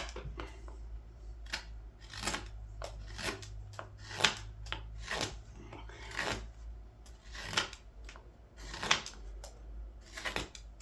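Large hook knife (scorp) cutting into green wood as the bowl of a wooden ladle is hollowed, in about a dozen quick scooping strokes roughly a second apart.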